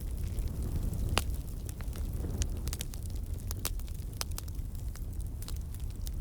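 Campfire burning: a steady low rumble of flame with frequent sharp crackles and pops at irregular intervals, one louder pop about a second in.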